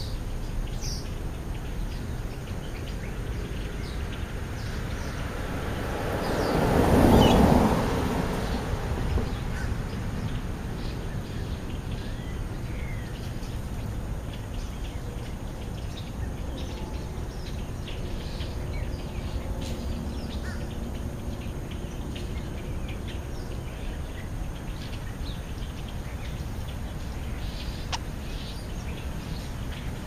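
Outdoor ambience of small birds chirping in short scattered calls over a steady low rumble. A louder whoosh swells and fades about six to eight seconds in.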